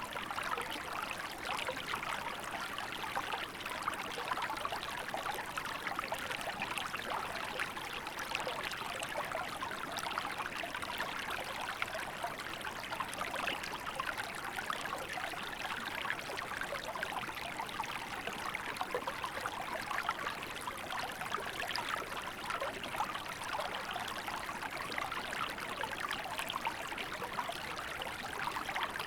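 Small river flowing steadily over rocks, a continuous babbling and trickling of water.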